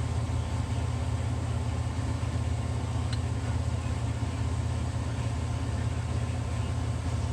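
A steady low mechanical drone with no rhythm, with one faint click about three seconds in.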